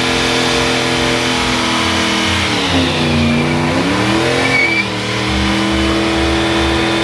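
Car engine revving hard and held at high revs for a burnout. The revs sag about three seconds in and climb back up a second or so later, then hold steady.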